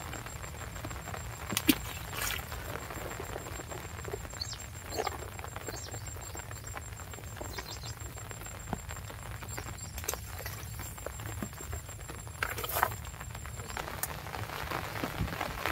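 Steady light rain pattering, with a few short sharp taps and rustles, the loudest about two seconds in and again near the end.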